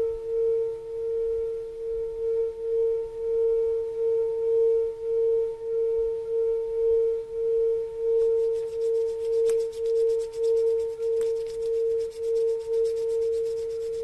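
Singing bowl ringing a steady, sustained tone that swells and fades about twice a second.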